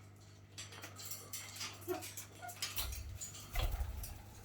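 Small pet parrots clicking and tapping with beaks and claws, a run of light irregular clicks with a few brief faint chirps. A low rumble comes in near the end.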